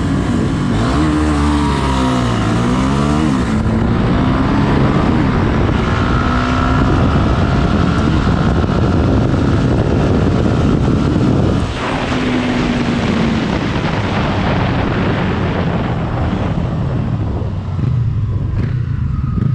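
Racing motorcycle engines revving hard, the pitch climbing and dropping quickly in the first few seconds, then a steady, loud engine noise. About twelve seconds in, a quick falling sweep sounds like a machine passing.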